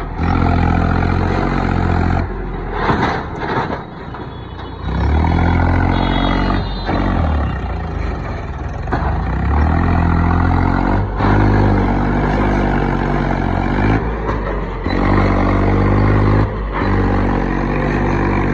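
Mahindra 265 tractor's three-cylinder diesel engine working hard, pulling a fully loaded trolley. Its note rises and falls, with several brief dips in level.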